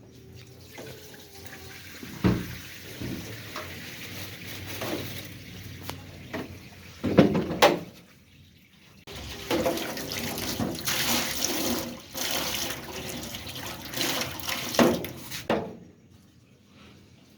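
Water being poured into a large cooking pot in two goes: a first pour, a short pause near the middle, then a longer, louder pour, with a few knocks of the container along the way.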